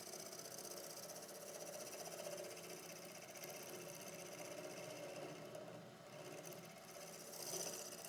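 Omega Stubby 750 wood lathe spinning a wooden blank while a turning tool cuts it: a steady, fast rattling whirr with a hiss of shaving. The cutting noise swells briefly near the end.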